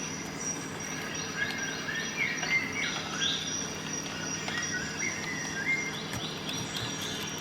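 Birds chirping, with short rising and stepped calls repeating throughout, over a steady background haze and a thin steady high tone.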